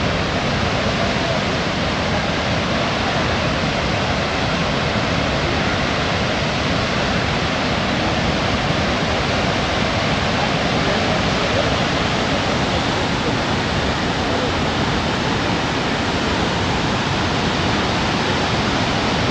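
Waterfall roaring: a steady, even rush of falling water with no breaks.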